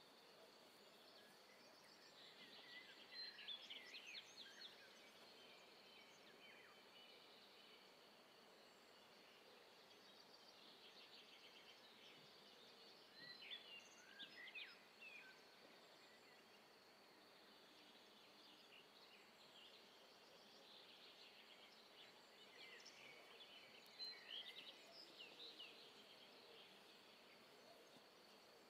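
Quiet outdoor ambience with faint bird chirps coming in three short bunches, over a steady faint high tone.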